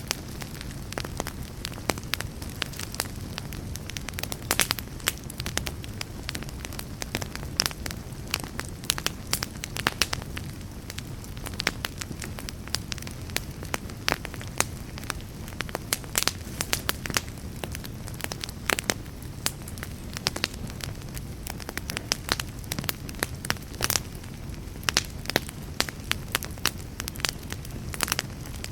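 Wood fire burning, with a steady low rumble and hiss under frequent sharp, irregular crackles and pops.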